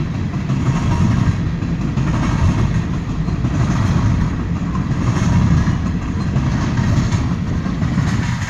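Freight train rolling past at steady speed, a continuous rumble of cars and wheels on the rails.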